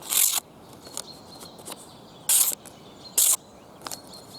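Wave-edged main blade of a Victorinox Soldier pocket knife slicing through paper in three short strokes: near the start, about two seconds later, and again a second after that. The edge, worn down by cutting hard wood, no longer cuts the paper as cleanly or easily.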